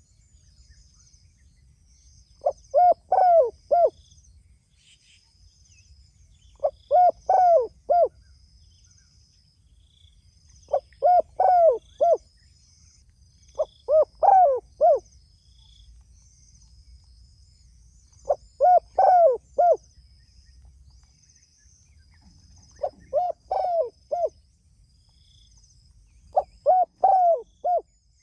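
Spotted dove (tekukur) cooing its repeated call: seven phrases of three to five rising-and-falling notes, each phrase about a second long and coming roughly every four seconds.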